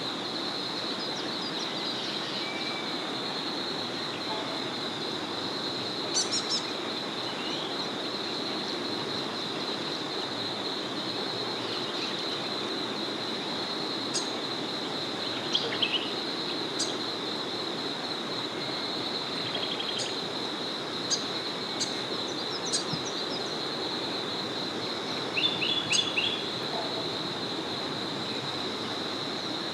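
A small river flowing steadily, with a continuous high, even trill in the background. Birds chirp in short calls now and then, the loudest a few seconds in, about halfway, and near the end.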